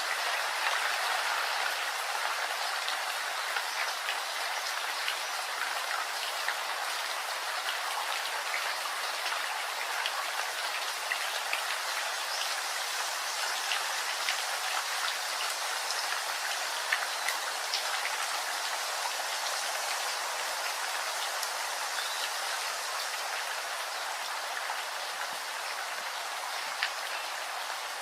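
Steady rain falling, an even hiss with many scattered sharp drop strikes.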